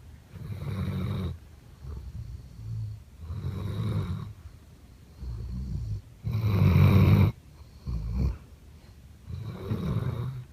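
Redbone coonhound snoring loud in its sleep: a run of rough snores, one about every second and a half, the loudest just past halfway.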